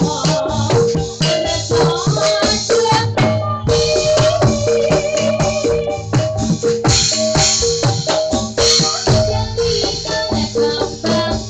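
Javanese jathilan gamelan music over a sound system: a repeating two-note figure on tuned percussion over a steady low drone, with drum strokes and rattling percussion.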